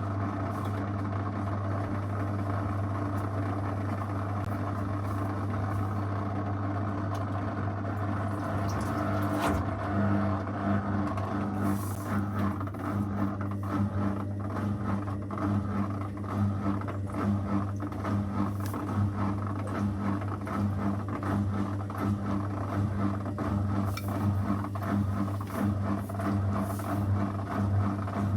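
Zanussi FL984CN front-loading washing machine running its wash program: a steady low motor hum that grows louder and more uneven about ten seconds in.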